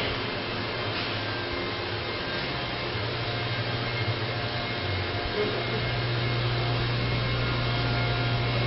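2004 GMC Envoy XL's 4.2-liter inline-six idling steadily: a constant hiss with a low hum that steadies and strengthens partway through.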